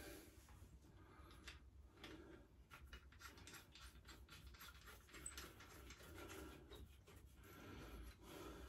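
Near silence: room tone with faint scattered small clicks and rubbing, as of parts being handled.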